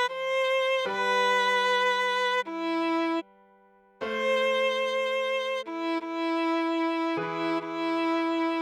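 Viola playing a slow melody in long, sustained notes, with a lower note held beneath and a short break a little past three seconds in.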